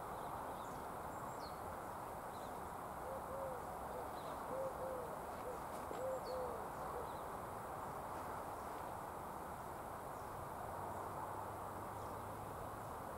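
A bird's low cooing calls: a few short groups of two or three soft hoots between about three and seven seconds in, over a steady background hiss.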